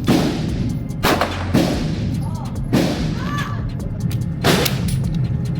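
Gunshots on a shooting range: five sharp reports at irregular intervals, each with a short echoing tail, over a steady low hum.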